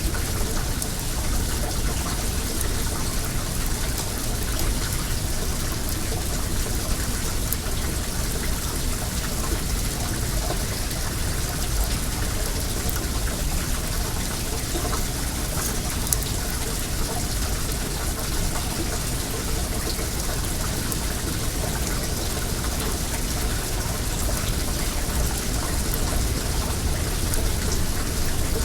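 Well water running in a steady, even rush, with a few faint crackles from the wood fire.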